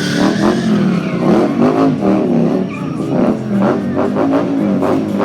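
Indian Scout Bobber V-twin motorcycle engine revving up and down repeatedly through loud aftermarket exhausts.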